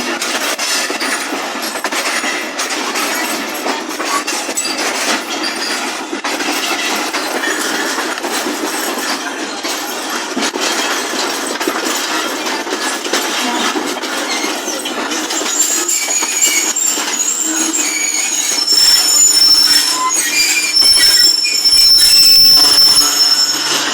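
Train running along the track with a steady rattle and clatter. About two-thirds of the way in, high-pitched wheel squeal joins it and grows louder: steel wheels grinding against the rails as the train takes the curve.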